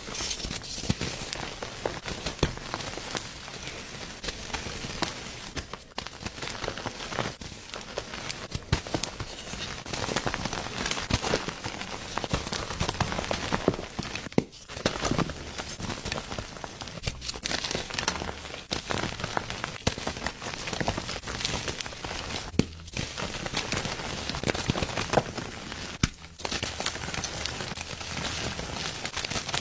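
Gym chalk being crushed: a dense run of crunching and crackling, broken by a few brief pauses.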